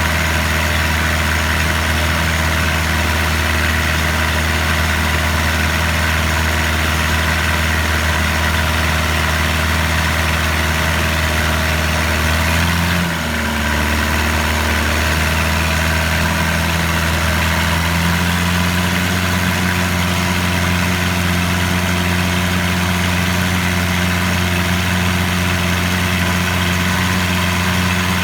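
A boat's engine running steadily under way. About halfway through it dips briefly as the throttle changes, then runs on at a slightly different speed.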